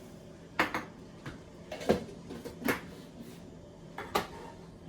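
A handful of irregular sharp knocks and clicks of kitchen utensils and containers being handled while seasoning paste is added to raw chicken.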